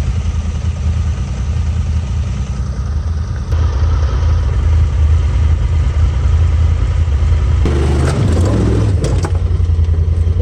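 Off-road vehicle engine running steadily, growing louder about a third of the way in, with a burst of knocks and clattering near the end.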